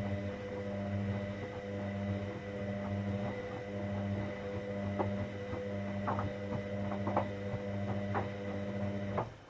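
Hoover Dynamic Next washing machine running with a steady low electrical hum and scattered small clicks and knocks, which cuts off suddenly near the end.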